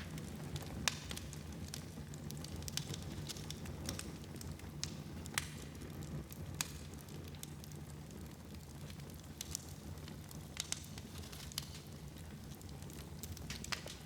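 Wood fire burning in a fireplace: a steady low rumble with irregular sharp crackles and pops, a few of them louder than the rest.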